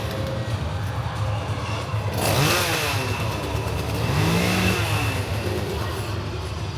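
Steady low engine-like rumble, with two brief sounds that rise and fall in pitch, about two and four seconds in.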